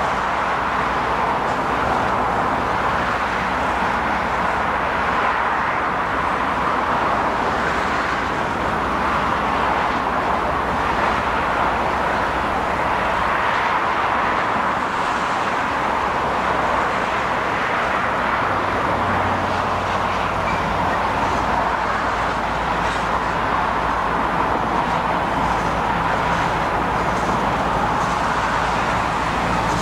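BNSF coal train of hopper cars rolling past with a steady rumble and wheel noise, mixed with freeway traffic. A low steady hum comes in about two-thirds of the way through, as a diesel locomotive in the train goes by.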